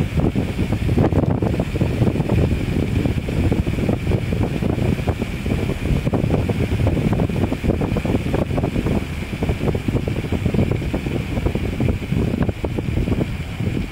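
Wind buffeting the microphone during a fast downhill bicycle ride: a loud, continuous, gusting rumble, with a faint steady high hum underneath.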